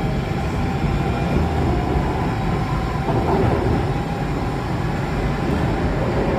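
Alstom Metropolis C830 metro train on the move, heard from inside the carriage: a steady low rumble of running noise.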